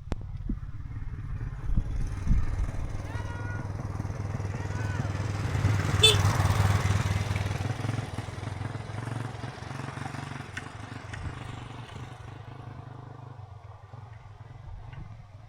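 A motorcycle engine approaches, passes at its loudest about six seconds in, and fades away.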